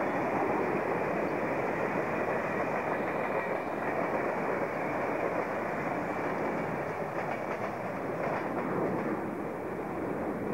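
Double-deck electric suburban train passing close at speed: a steady rumble of steel wheels on rail, with a run of wheel clacks over rail joints a little past halfway.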